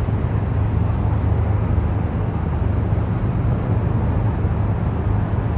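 Steady low rumble of distant city traffic, with no single event standing out.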